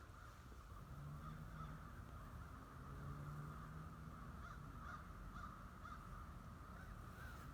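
A flock of distant crows cawing, many overlapping calls blending into a faint, steady chorus.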